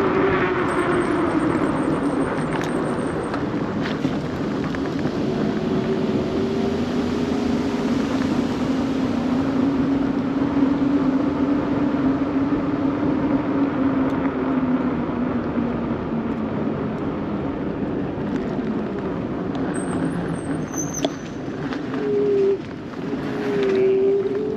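Steady rushing wind and rolling noise from riding a bicycle, with a low hum that slowly falls and rises and a few faint ticks.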